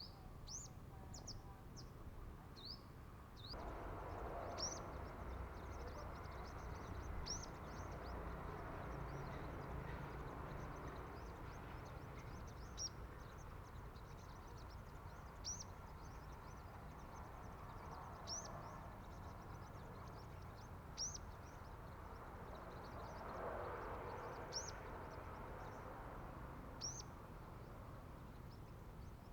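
Sunbird giving short, sharp, high-pitched calls, one every two to three seconds, with a quicker cluster at the start. A steady background hiss comes up about four seconds in.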